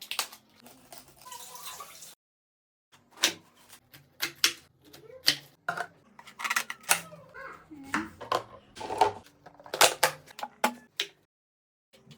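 Handling noises of food containers and produce being put away in a fridge: a quick, uneven run of sharp clicks and knocks with some rustling, broken twice by sudden dead silence.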